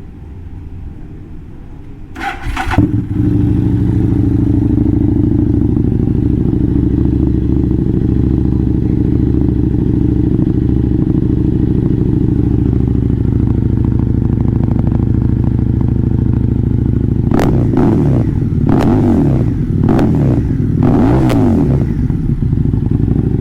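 Motorcycle engine starting about two seconds in and then idling steadily, with a few short revs near the end.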